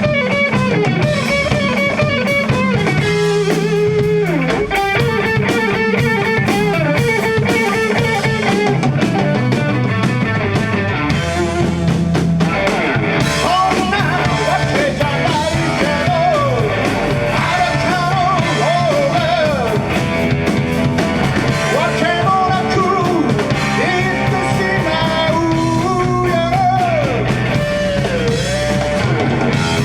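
Rock band playing: electric guitars, bass and drum kit. About halfway in, a lead melody comes in over them with its notes bending up and down.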